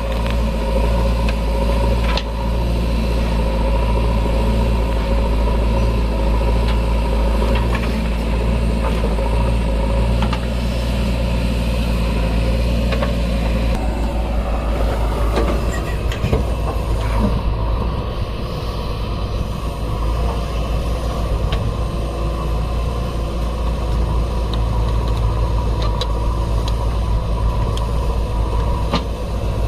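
Heavy diesel engine running steadily, its low note shifting about halfway through, with a few sharp knocks.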